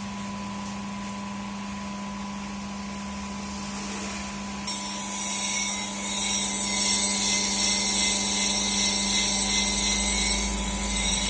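Clipper-blade sharpening machine, its motor running with a steady hum. A little under halfway in, a louder high grinding hiss joins and swells a second or so later, as a blade meets the spinning disc.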